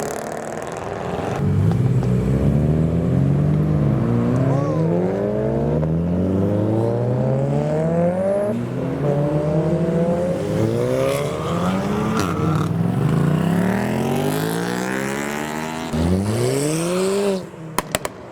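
Modified cars accelerating away one after another, their engines revving, the pitch climbing again and again as they pull off and change gear. About 16 s in one car gives a hard, loud rev that cuts off sharply, followed by a few sharp cracks.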